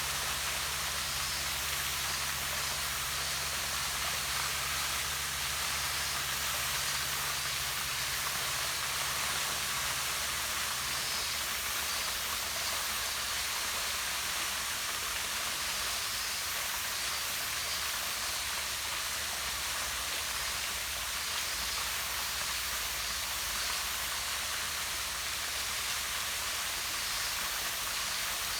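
Small waterfall pouring down rocks into a pond: a steady, even rush of falling water.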